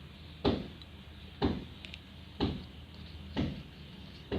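Capped plastic bottle of water, borax and green food colouring being shaken, the liquid knocking inside about once a second in an even rhythm to mix the slime activator.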